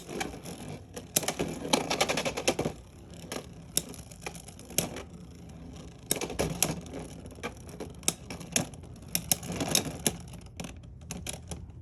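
Two Beyblade X spinning tops battling in a plastic stadium, with rapid sharp clacks in repeated clusters as they collide, and a steady spinning rattle in between. The clashes thin out near the end as the battle finishes with one top spinning out.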